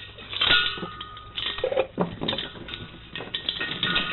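A heavy, long metal chain being taken off, its links clanking and clinking in several bursts with a short metallic ring.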